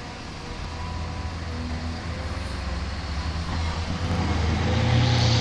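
Isuzu heavy truck's diesel engine running with a steady low rumble, growing gradually louder, with a deeper hum building near the end.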